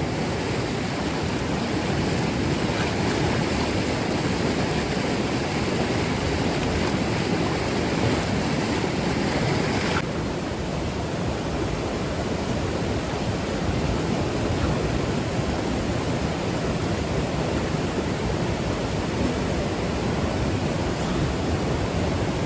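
Steady rushing of flowing water, an even noise with no distinct splashes; it turns a little duller about ten seconds in.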